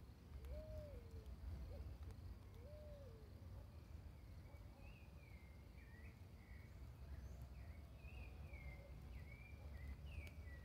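Birds calling: two low, arched whistled notes in the first few seconds, then a run of quick, higher chirping notes through the second half, over a faint low rumble.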